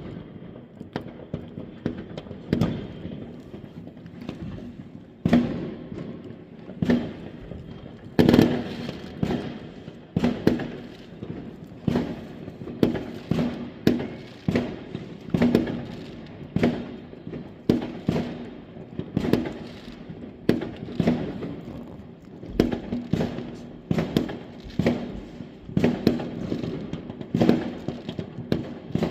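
Fireworks going off in a steady series of sharp bangs, roughly one a second, each trailing off in a short echo.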